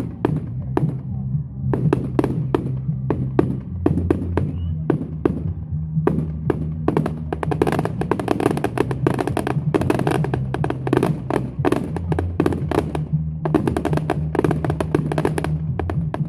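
Fireworks bursting and crackling in quick succession, thickening into a dense run of crackles about seven seconds in, over music with sustained low bass notes.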